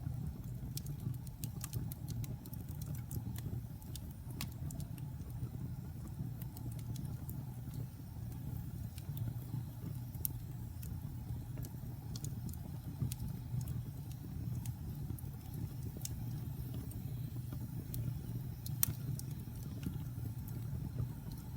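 Wood fire burning in a fireplace: a steady low rumble of the flames with frequent small crackles and pops, one sharper pop near the end.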